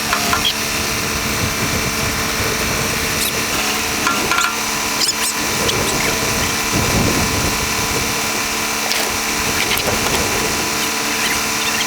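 Tractor engine running steadily at close range, working the front-end loader, with a few light clicks and knocks over it.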